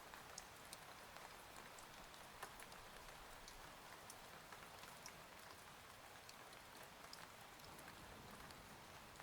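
Faint, steady rain ambience with many small scattered drop taps.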